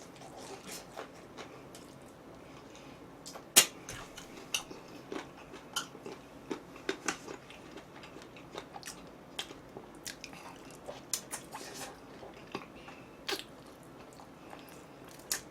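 A person chewing and biting food close to the microphone: many short, crisp crunches and mouth smacks at an uneven pace, the loudest about three and a half seconds in.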